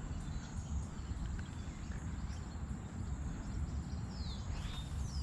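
Outdoor waterside ambience: a steady low rumble under a thin, steady high whine, with a bird's descending whistled calls about four to five seconds in.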